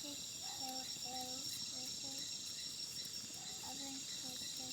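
Steady chorus of crickets trilling, several high-pitched tones held without a break, with faint low voices talking underneath.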